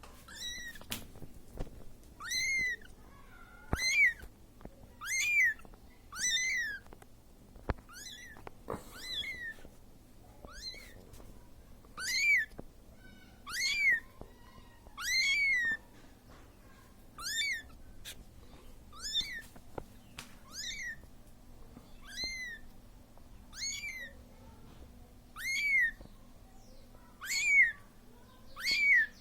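Siamese kitten meowing over and over, about one high call every one and a half seconds, each rising then falling in pitch: a kitten's call for its mother.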